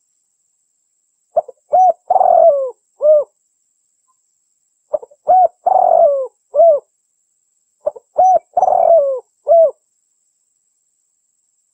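Female spotted dove cooing: three phrases of four or five low coo notes each, a few seconds apart, with silence between them.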